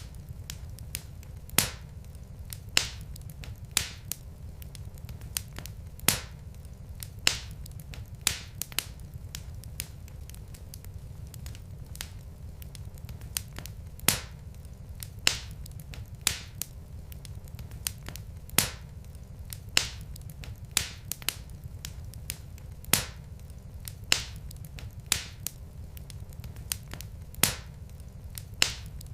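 Wood fire in a fireplace, logs crackling: sharp pops and snaps at irregular intervals, roughly one a second, over a low steady rumble.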